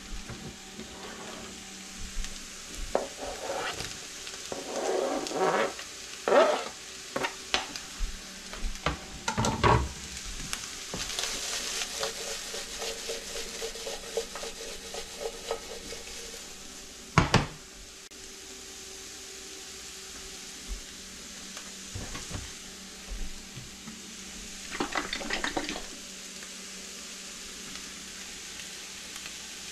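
Diced vegetables and sausage sizzling as they fry in a nonstick pan, with stirring and scattered knocks and clatter of utensils against the pan. One sharp knock a little past halfway is the loudest sound.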